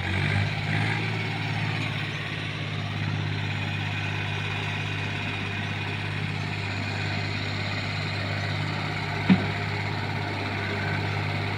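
Swaraj 744 tractor's three-cylinder diesel engine running steadily at a low, even pitch. A single sharp knock comes about nine seconds in.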